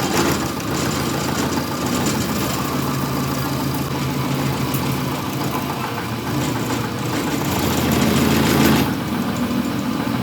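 An engine running steadily at low speed, growing louder around eight seconds in and then easing back.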